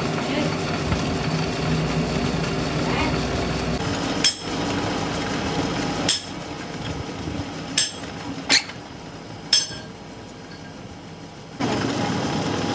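A hammer striking steel five times, each blow sharp with a short metallic ring. A steady machine hum runs under the start, drops away for the blows and comes back near the end.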